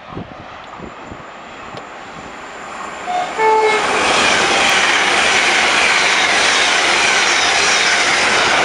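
LNER Hitachi Azuma high-speed train sounding a short two-note horn about three seconds in as it approaches, then running through at speed with a loud, steady rush of wheels and air as the carriages pass.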